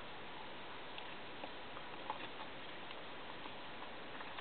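Steady low hiss with a few faint, scattered small clicks and ticks.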